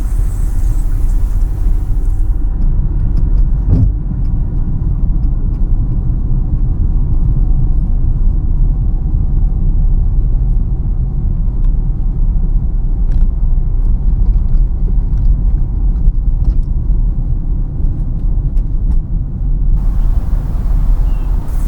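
Steady low rumble of a car's engine and road noise, heard from inside the cabin while driving. A higher hiss drops away about two seconds in and comes back near the end, with faint scattered ticks in between.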